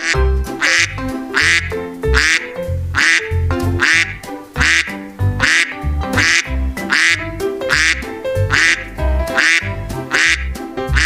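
Duck quacking over and over, about one quack every three-quarters of a second, over children's background music.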